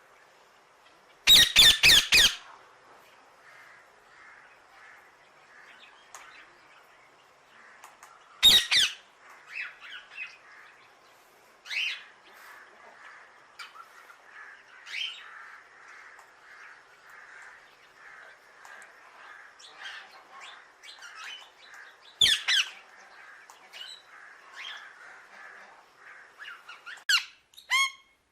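Parrot squawking: a rapid run of four loud, harsh squawks about a second in, single loud squawks later on, and softer calls in between over a steady low chatter.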